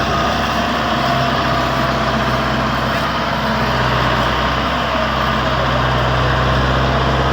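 Tractor's diesel engine running steadily, a constant low engine hum.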